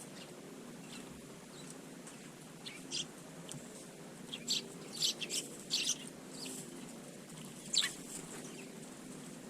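Eurasian tree sparrows chirping: short, high chirps, a few scattered and then a quick cluster, with the loudest a single downward chirp near the end.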